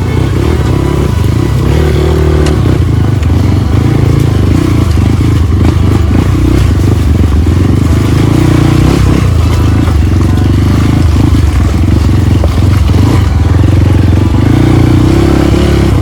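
Trail motorcycle engine running steadily at close range, even in pitch and level.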